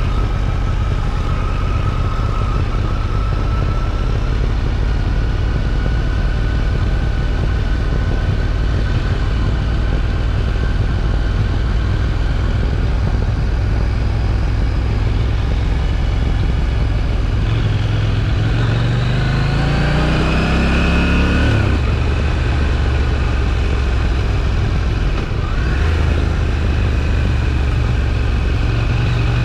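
KTM 790 Duke's 799 cc parallel-twin engine through its stock exhaust, running steadily under a rush of wind and road noise. About two-thirds of the way in the revs climb under acceleration and then drop sharply at a gearshift. A few seconds later there is a brief dip, like another shift.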